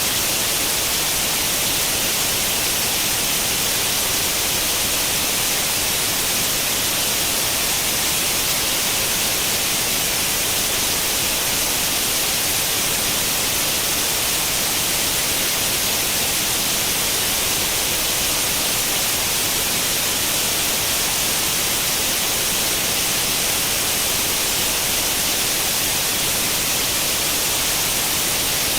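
Steady white-noise static, the hiss of an untuned tube television, even and unbroken and strongest in the upper range.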